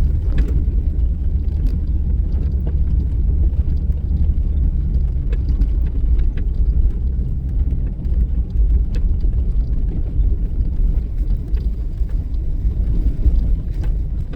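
Jeep driving on a rough back road, a steady low engine and tyre rumble heard from inside the cabin, with scattered small knocks and rattles.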